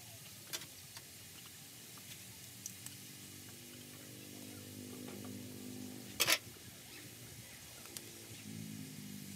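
Beef frying quietly in a steel wok over a wood fire, with light clicks from seasoning shakers being handled and one sharp clack about six seconds in. A low droning hum swells through the middle and again near the end.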